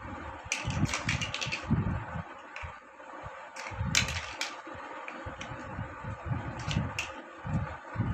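Plastic building blocks handled by hand: clusters of sharp clicks and clatter with soft low knocks between them, over a faint steady hum.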